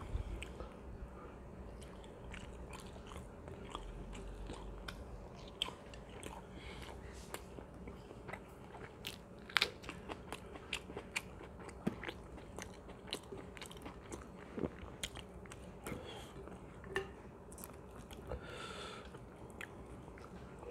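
A person chewing chicken biryani with crunches and many short, sharp mouth clicks scattered throughout, one louder click about ten seconds in.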